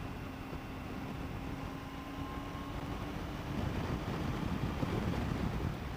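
Triumph Tiger 800 XRT's three-cylinder engine running at a steady cruise under wind rush on the microphone; the wind buffeting grows louder about halfway through.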